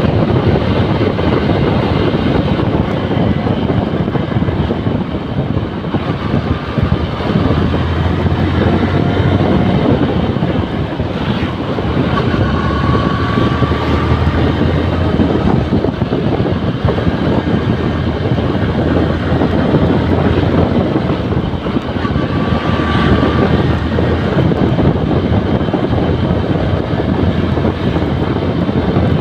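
Honda New Megapro single-cylinder motorcycle being ridden, its engine running steadily under heavy wind noise on the microphone, on a wet road in drizzle.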